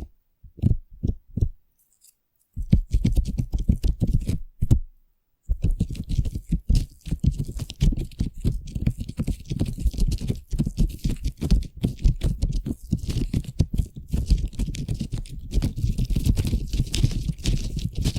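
Foam being squished and worked close to the microphone: a few soft taps, then dense, rapid crackling and squishing that pauses briefly about five seconds in and then runs on.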